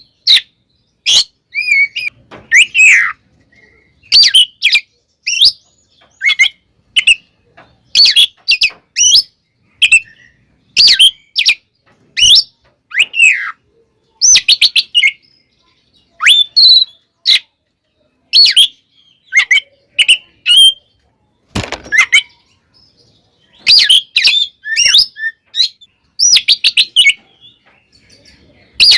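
Oriental magpie-robin (kacer) singing loudly in its agitated, fighting-style song: quick phrases of sharp whistled and chattering notes broken by short pauses, with one harsher rasping note a little past the middle.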